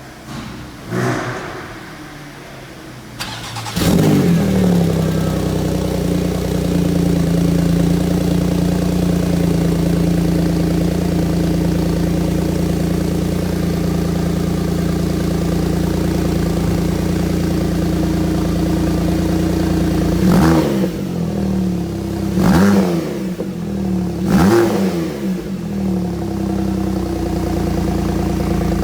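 Porsche 991.2 Turbo S twin-turbo flat-six with a Sharkwerks center-bypass exhaust starting up about four seconds in, with a brief surge of revs before it settles into a steady idle. Later it gets three short throttle blips, each revving up and dropping back to idle.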